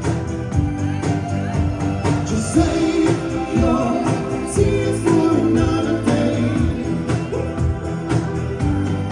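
Live band music with a singer: a pop-style song with a steady beat and a sung melody.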